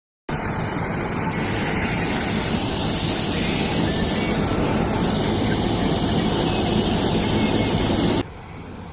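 Wheat-harvesting machinery, most likely a combine harvester, running steadily at full noise with a deep engine hum under a dense mechanical rush. It cuts off suddenly about eight seconds in, leaving a much quieter machine sound.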